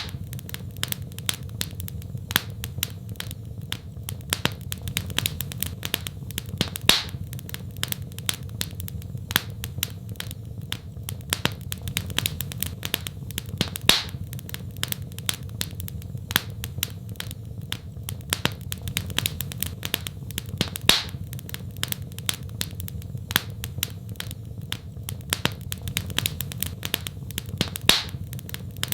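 Fireplace fire crackling: a dense, steady run of small sharp crackles over a low rumble, with a louder pop about every seven seconds.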